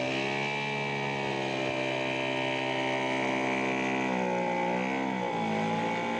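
Radio-controlled scale model airplane engine running in flight with a steady buzzing note. Its pitch wavers down and back up about four to five seconds in.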